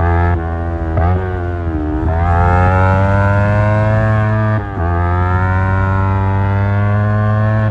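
Yamaha R25's parallel-twin engine through an Akrapovic exhaust, accelerating hard: the revs climb steadily and drop sharply at each upshift, several times.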